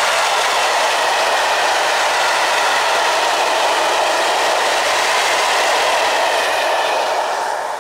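A train of low-sided open freight wagons rolling past, with a loud, steady rush of steel wheels on the rails. The sound starts to fade near the end as the last wagon goes by.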